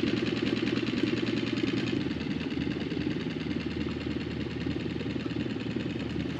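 Small boat motor running steadily at low speed with a rapid, even chugging.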